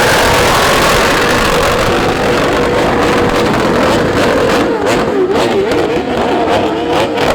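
Car engine running hard and revving, its pitch swinging rapidly up and down in the second half, with sharp pops between.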